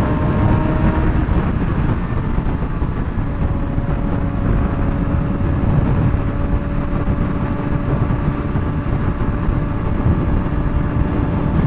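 2007 Suzuki GSX-R600 inline-four with a straight-pipe exhaust, cruising at highway speed with a steady, unchanging engine note.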